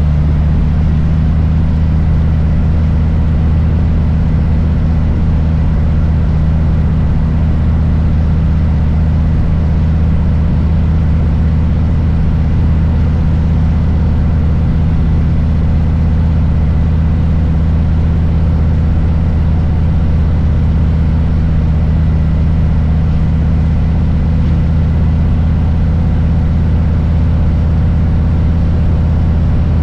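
Harley-Davidson Low Rider S Milwaukee-Eight V-twin engine running steadily with a deep, even rumble, its pitch holding level throughout with no revving.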